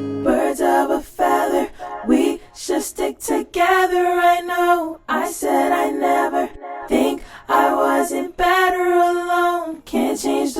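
Unaccompanied female voice singing long held, wordless notes, with shorter broken phrases first, once the acoustic guitar stops.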